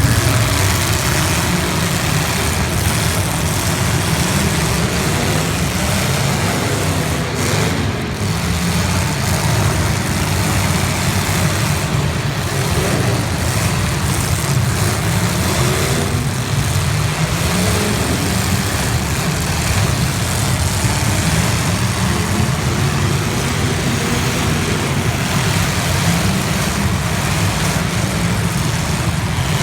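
Demolition derby cars' engines running loud and steady together, with a low rumble and no breaks.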